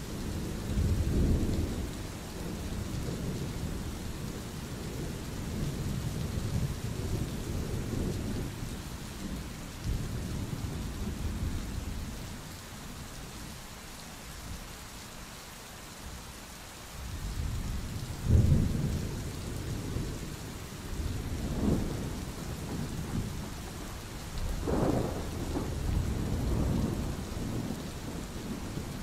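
Thunderstorm: rolling thunder over steady rain. The thunder eases to a lull near the middle. It then comes back with three sharper claps, the loudest in the second half.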